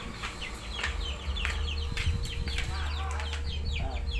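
Birds calling, many short falling chirps in quick succession, over a low rumble.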